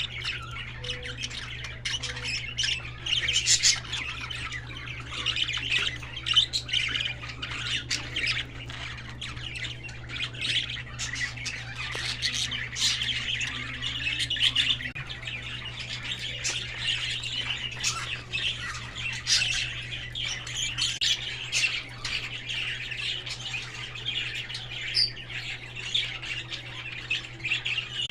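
Lovebirds and bulbuls chattering and squawking: many shrill calls overlapping without a break, over a steady low hum.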